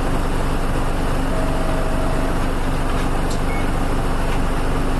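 Nissan Diesel UA452 city bus running steadily, its diesel engine a constant rumble heard from inside the cabin. A short steady tone sounds about a second in.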